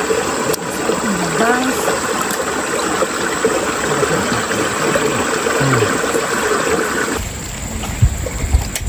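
River water rushing steadily. About seven seconds in it cuts off abruptly to a deeper, quieter rumble, with two sharp knocks near the end.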